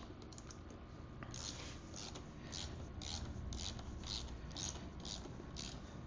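A hand wrench being worked on a rear-wheel adjuster nut, ratcheting in short strokes about twice a second.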